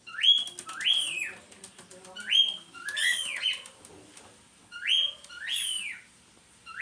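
Cockatiels calling: short, sharply rising whistled calls, often two in quick succession, repeated every second or two.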